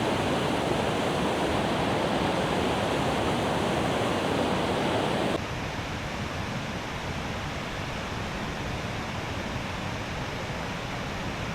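Steady rush of a river's falling water over cascades. It drops abruptly to a quieter rush about five seconds in.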